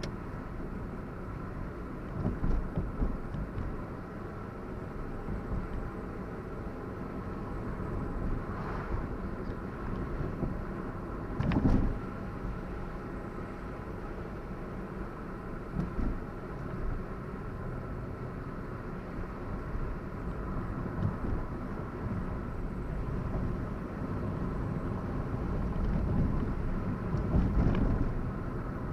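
Car engine and road noise heard from inside the cabin while driving, with a few louder bumps, the loudest about twelve seconds in.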